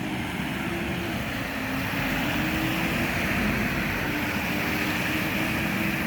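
Single-decker or double-decker bus (Midland Bluebird 3361) running with a steady vacuum-cleaner-like whirr: a rushing hiss over a held whining tone and low rumble, growing a little louder. Its sound is what gets it called a "hoover".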